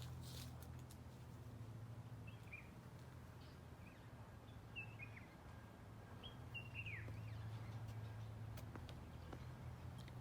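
Faint bird calls: a few short chirps, each sweeping downward, about two, five and six to seven seconds in, over a steady low hum.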